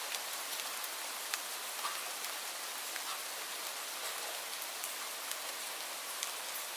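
Steady rain falling, an even hiss with scattered close drop ticks on a surface.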